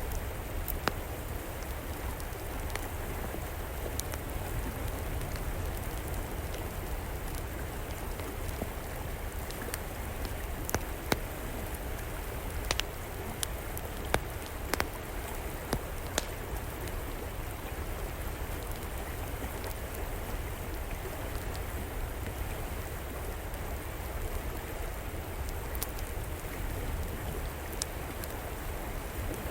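A river flowing steadily, with an outdoor wood fire crackling over it: scattered sharp pops and snaps, several close together around the middle.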